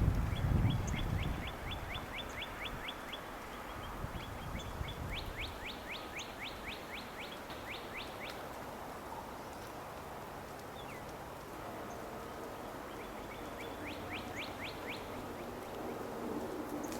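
A songbird singing runs of quick, repeated down-slurred whistles, about four a second, each run lasting a few seconds with pauses between. A low rumble fades out in the first second or two.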